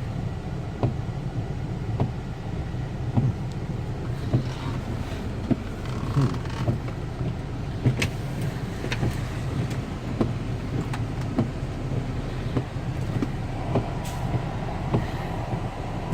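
Heavy rain falling steadily, with irregular sharp drips tapping close by and a low steady rumble underneath.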